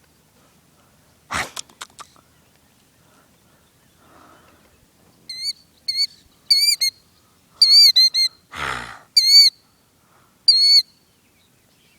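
Killdeer giving about nine shrill alarm calls, each note rising then falling, starting about five seconds in: the alarm of a parent guarding its eggs on a ground nest. A few sharp clicks come about a second and a half in, and a short rustle near nine seconds.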